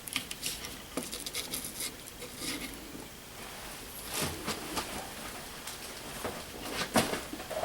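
Thermostat wires and a plastic Nest base plate being handled against the wall: rustling and scraping with scattered light clicks, and a sharper click about seven seconds in.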